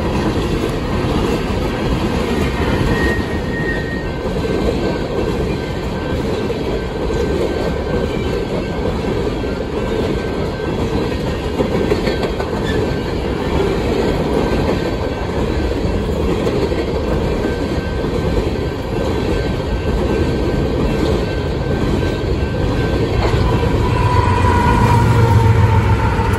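Empty coal cars of a freight train rolling past close by, a steady rumble with wheels clacking over the rails. Near the end a diesel locomotive within the train comes alongside, its engine hum swelling to the loudest point.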